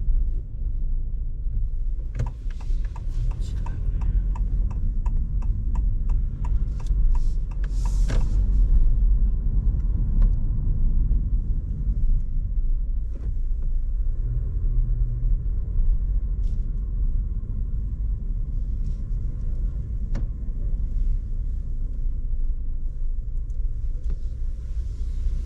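Road rumble inside a Honda ZR-V's cabin while driving, a steady low drone. A regular ticking runs for several seconds about two seconds in.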